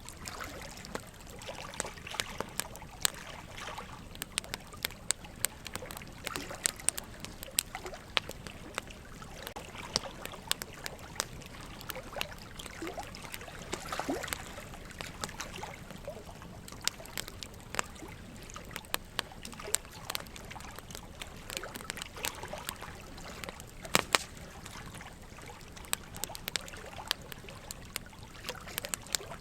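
Burning logs crackling with frequent sharp pops, the loudest about 24 seconds in, over a steady trickle of running water.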